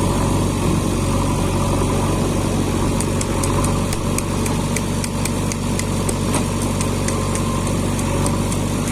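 Diesel engine of a JCB 3DX backhoe loader running steadily at idle, with faint light clicks in the second half.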